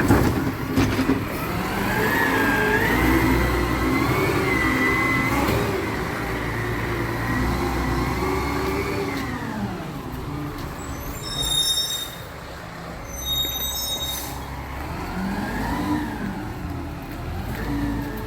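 Recycling truck's diesel engine revving up and held high for several seconds, then dropping back, with a brief rise and fall again near the end. Two short high-pitched squeaks come about halfway through.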